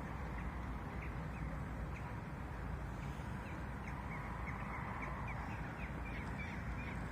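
An animal's short chirping calls, repeated a few times a second, over a steady low background rumble.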